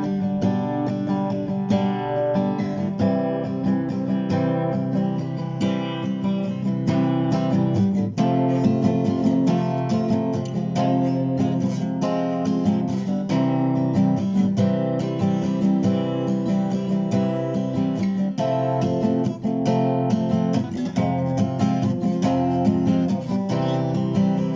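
Background music led by strummed acoustic guitar, a steady run of plucked chords.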